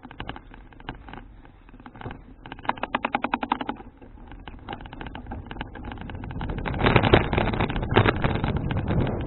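Wind rushing over an action camera's microphone on a moving folding bicycle, growing louder from about six seconds in. About two and a half seconds in comes a run of rapid, even ticking from the bike, lasting about a second.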